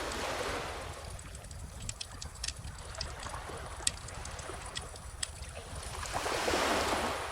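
Wood fire crackling with scattered sharp pops over ocean waves washing in, one swell at the start and a louder one about six seconds in.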